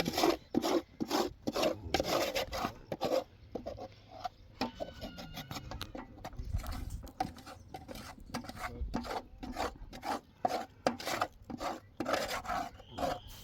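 Repeated scraping or rasping strokes, about three a second, with a quieter stretch in the middle.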